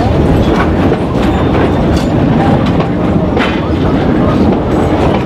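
Narrow-gauge train running along the track, heard from an open-sided passenger car: a steady, loud rumble of wheels on the rails with scattered clicks and clacks.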